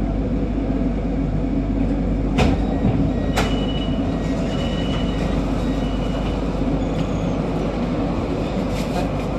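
MRT Kajang Line train running, a steady low rumble and hum heard from inside the car. Two sharp clicks come a couple of seconds in, a second apart, followed by a few short high beeps.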